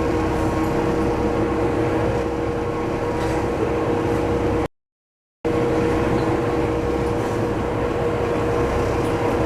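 Diesel railcar running, a steady mechanical drone with a constant hum, heard from inside the car. The sound cuts out entirely for under a second about halfway through.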